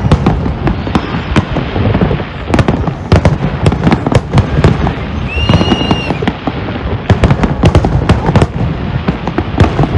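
Fireworks display: rapid, overlapping bangs from many shells bursting without a break, with a short high whistle about halfway through.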